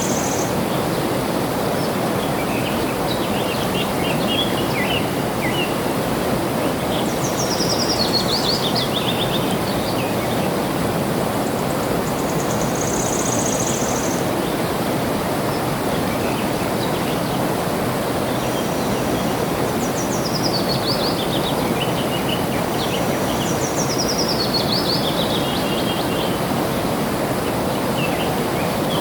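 Flowing water running steadily, with small birds singing over it: several descending trilled phrases, a few short high held notes and scattered chirps.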